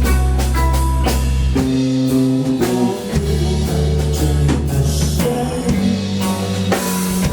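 A live band playing rock music with guitar and drums over a deep bass line that changes note every second or so.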